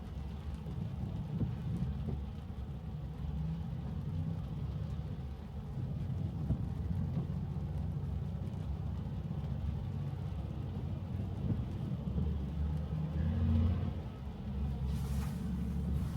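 Road and tyre noise inside a Tesla's cabin driving on wet streets in the rain: a steady low rumble, with a brief hiss about fifteen seconds in.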